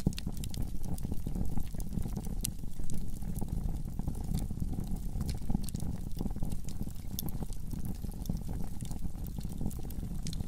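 Wood fire in a fireplace crackling, with sharp pops scattered irregularly over a steady low rumble of the flames.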